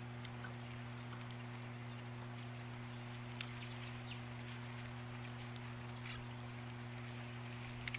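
Faint, scattered chirps of small songbirds, a few in quick succession about halfway through and again near the end, over a steady low electrical hum.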